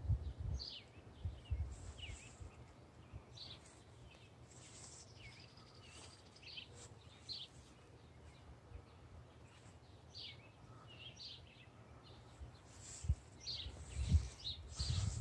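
Birds chirping now and then: short, high calls scattered through, over faint outdoor background noise. A few low rumbles come in near the end.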